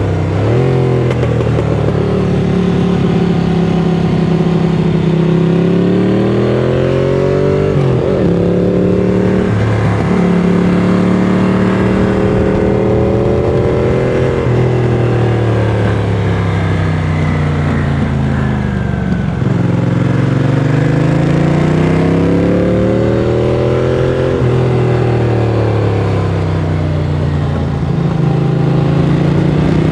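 Ducati Monster 695's air-cooled L-twin through a Mivv X-Cone aftermarket exhaust, heard onboard while riding. The engine note climbs and falls again and again as the throttle is opened and closed, dipping sharply every few seconds.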